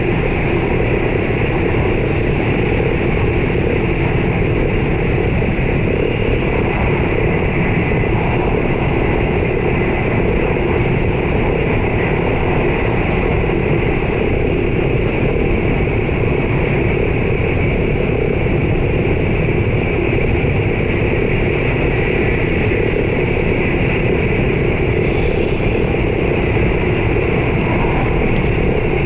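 Running noise of a JR East E4 series Max double-deck Shinkansen at speed, heard inside the passenger cabin: a steady rumble and hiss from wheels on rail and air rushing past.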